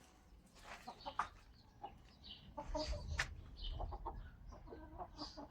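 Chickens clucking, a string of short calls with some clicks and knocks among them.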